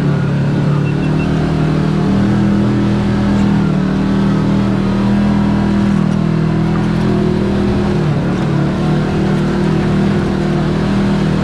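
Side-by-side UTV engine running continuously at fairly steady revs while driving on the trail, its pitch dipping and shifting slightly about eight seconds in.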